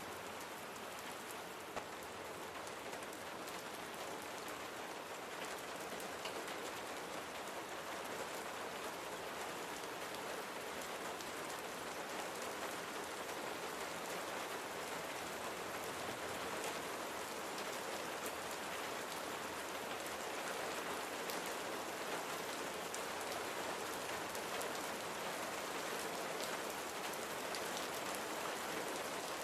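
Steady rain falling and pattering on a surface, a dense even hiss of many drops, growing slightly louder over the stretch.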